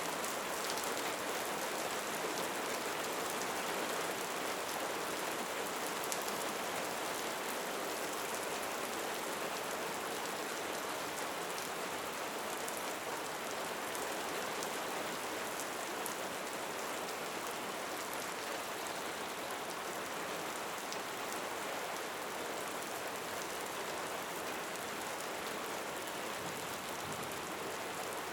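Steady rain falling: an even hiss with a fine patter of separate drops ticking through it.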